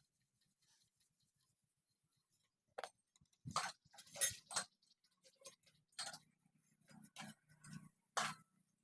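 Sharp, irregular metal clinks and knocks, as of hand tools and engine parts being handled during tractor engine repair. It is quiet for the first few seconds, then there are about eight strikes spread over the rest.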